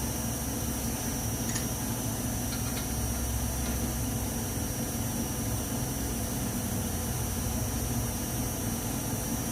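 A steady low mechanical hum over an even hiss, with a few faint light clicks about one and a half to three seconds in.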